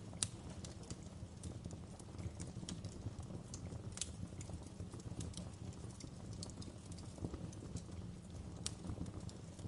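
Wood fire in a fireplace crackling: irregular sharp pops and snaps over a low steady rumble of the flames. The louder pops come just after the start, about four seconds in, and near the end.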